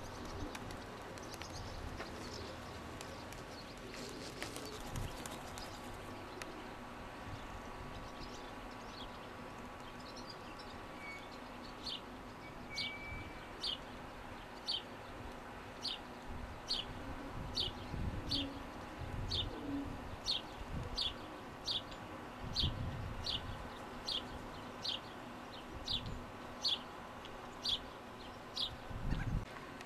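A bird repeats a short, high, slightly falling chirp a little faster than once a second, starting about twelve seconds in, over a faint steady hum. A few low thumps come in the second half.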